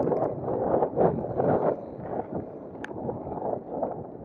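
Wind buffeting the microphone of a camera riding along on a bicycle: a rough rushing that swells and fades every half second or so.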